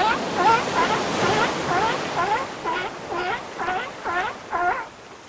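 Seal barking in a steady series of about ten short, pitched barks, roughly two a second, over the wash of surf. The barks stop just before the end.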